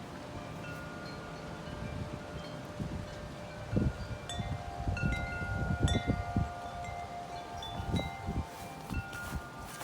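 Wind chimes ringing in strong gusty wind, several overlapping notes that hang and fade. Wind buffets the microphone in gusts, strongest through the middle and again near the end.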